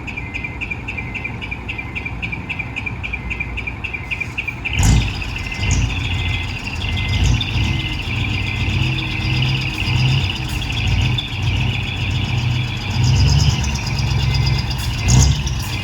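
Hino Profia Teravi's V8 diesel engine running through its dual exhaust: idling with an even high ticking over it for the first few seconds, then revved up and down repeatedly from about five seconds in, with a sharp loud burst at the first rev and another near the end.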